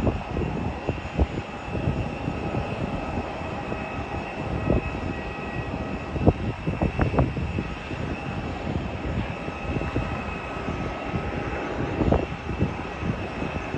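Jet airliner engines running with a steady whine, under gusty wind buffeting the microphone.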